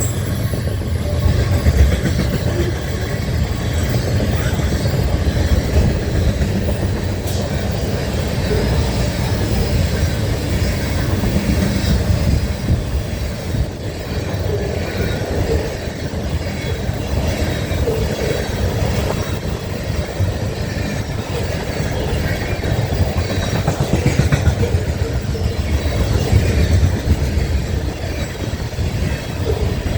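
A train rolling past, its cars and wheels on the rails making a steady low rumble.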